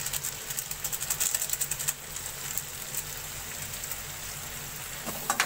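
Whole stuffed brinjals frying in oil in a metal kadai, sizzling with a steady crackle, busier in the first two seconds. There are a couple of sharp knocks near the end.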